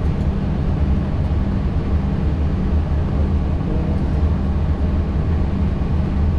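Steady low rumble of cockpit noise in an Airbus A320 taxiing after landing.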